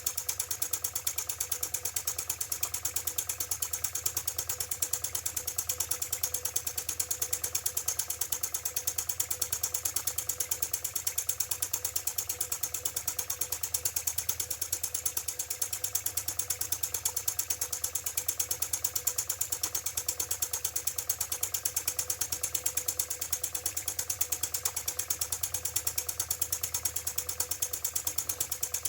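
IND-X electrically heated toy steam engine running steadily under steam, its slide-valve cylinder beating out a rapid, even run of ticks.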